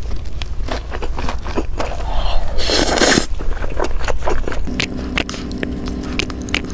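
Close-miked mukbang eating sounds: biting and chewing with many sharp wet clicks, and a louder noisy rush about two and a half seconds in. A steady low tone joins about five seconds in.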